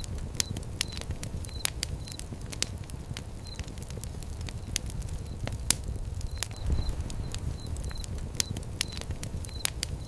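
Fire crackling, with frequent irregular sharp pops and snaps over a low steady rumble of flames.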